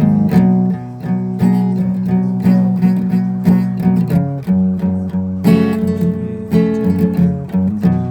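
Guitar being played: plucked and strummed chords in a steady run of notes, moving to a new chord about five and a half seconds in.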